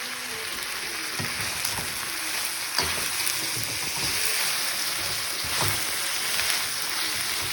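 Noodles sizzling as they are stir-fried in a hot wok: a steady hiss, with a few knocks of the stirring utensil against the pan.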